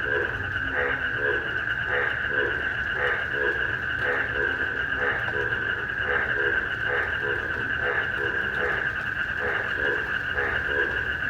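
Frogs croaking in short, repeated calls, about two a second, over a steady shrill chorus of crickets.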